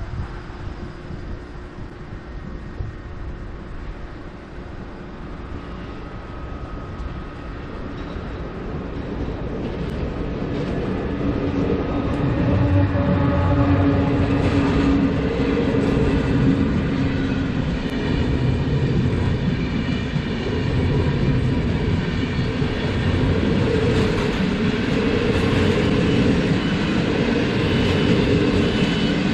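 EU160 electric locomotive hauling a passenger train over a level crossing. The rumble builds over the first dozen seconds as the train approaches, then holds loud and steady with wheel noise as the locomotive and coaches run past.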